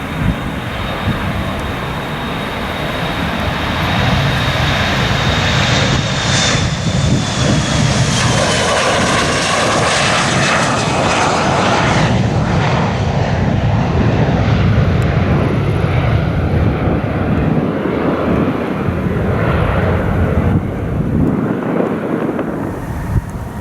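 Departing airliner's engines at take-off power as it passes close by. The roar swells a few seconds in and stays strong, a high whine slides down in pitch as the aircraft goes past, and the rumble eases off slowly near the end.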